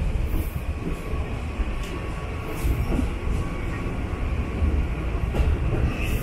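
Diesel-hauled Norokko sightseeing train running slowly, heard from inside its open-sided observation coach: a steady low rumble with a few single wheel clicks over the track.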